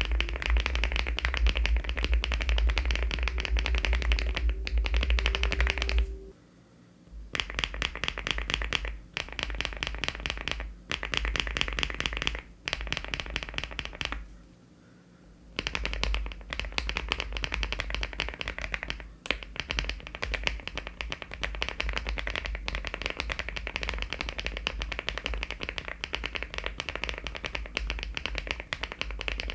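Fast typing on a LEOBOG Hi75 aluminium-case mechanical keyboard with HMX switches and Cherry-profile keycaps: a dense run of keystrokes with deep bottom-out thuds, pausing briefly about six seconds in and again about fourteen seconds in.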